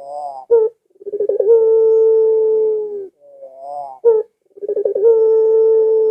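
Barbary dove (burung puter, pelung type) cooing: two calls, each a few short rising notes followed by one long, steady, drawn-out coo that drops in pitch as it ends.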